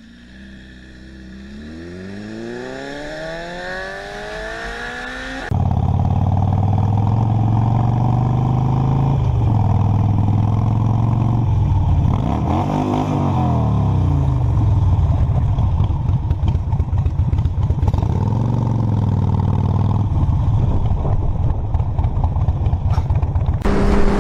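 Motorcycle engine accelerating, its pitch rising steadily through the first five seconds, then running loud at speed with wind noise, the revs dipping and climbing again a few times. The sound jumps suddenly louder about five seconds in.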